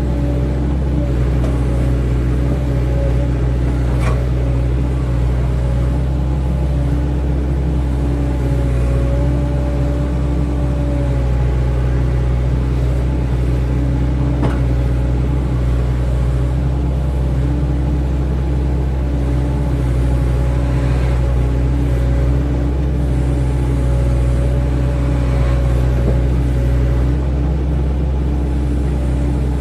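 Excavator's diesel engine running steadily under working load, with a hydraulic whine that comes and goes as the machine digs and moves soil. A few faint clanks, about four and fourteen seconds in.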